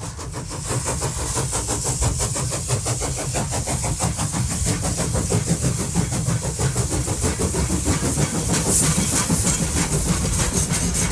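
A train running: a steady, fast mechanical clatter with a hiss, fading in from silence at the start.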